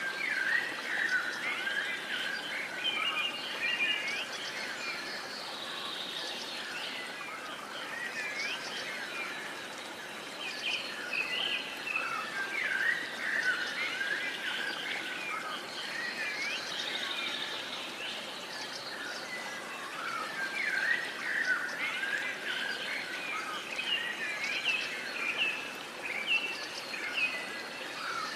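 Many birds chirping and singing at once, with overlapping short calls and quick rising and falling whistles, thicker in some stretches and thinner in others, over a steady background hiss.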